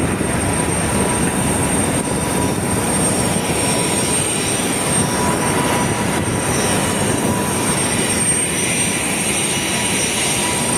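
Jet aircraft noise on an airport apron: a loud, steady rush with a constant high whine.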